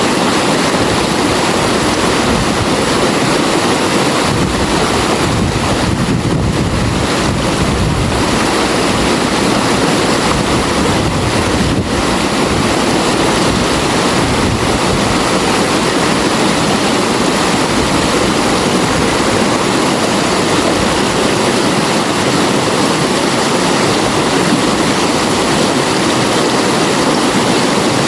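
River water flowing steadily, a loud, even rush.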